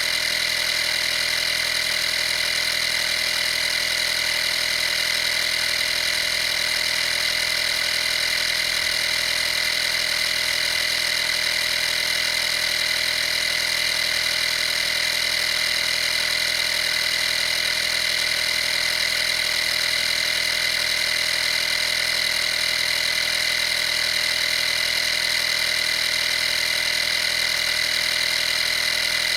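Vaper 12-volt air compressor (model 55203) running steadily with a constant high-pitched whine.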